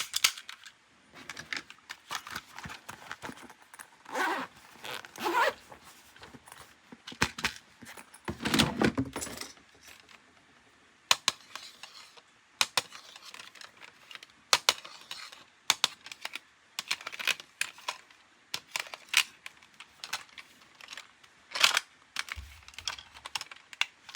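Plastic toy parts and packaging being handled during an unboxing: a run of sharp clicks and taps, with a few short rustles of wrapping.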